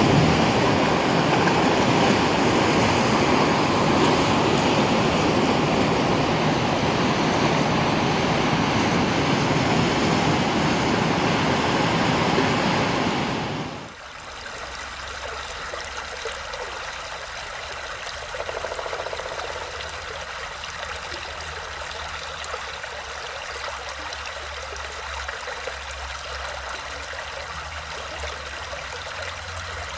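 Loud, steady rushing of heavy water, cut off suddenly about halfway through for the quieter, steady babbling and trickling of a small brook.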